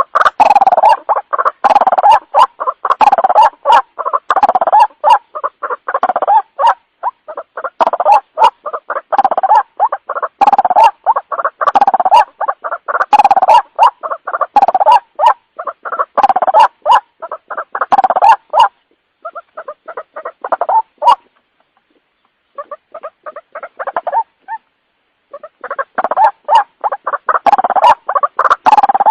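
White-breasted waterhen (ruak-ruak) calling in fast, continuous runs of short repeated notes, as used in a lure-call recording. The calls thin out and break off briefly twice in the last third before picking up again.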